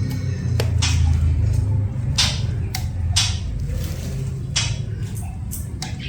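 A cucak ijo (green leafbird) cage being sprayed with water for its bath: short hissing bursts, several in a few seconds, over a steady low hum.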